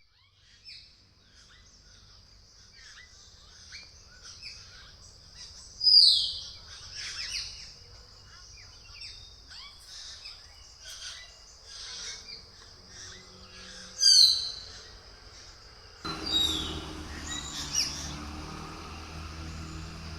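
Birds chirping and singing, with many short calls and two louder falling calls about six and fourteen seconds in. From about sixteen seconds a low steady hum joins the birdsong.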